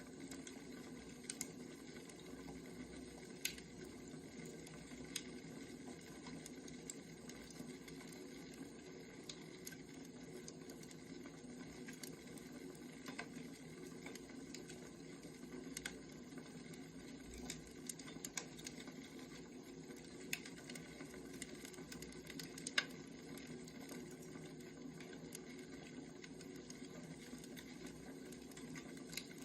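Burning firewood crackling, with irregular sharp pops and snaps over a faint, steady low hiss.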